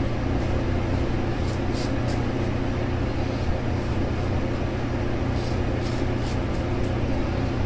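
A steady low hum fills the background. Over it come a series of short, faint scratching strokes: a brass safety razor cutting through lathered stubble.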